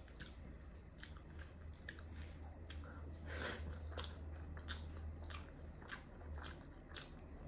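Close-up chewing and mouth sounds of someone eating chicken curry: irregular wet clicks and smacks, several a second, over a steady low hum.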